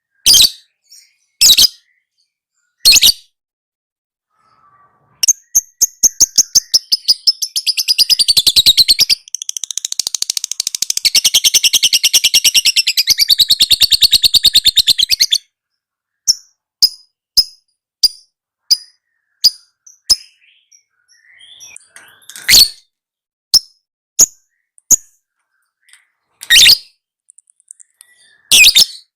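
Lovebird song: a few sharp, loud, high chirps, then a long, very fast chattering trill lasting about ten seconds, then scattered short chips and more sharp chirps near the end. The long rapid chatter is the kind of song that keepers play as a tutor recording for their lovebirds.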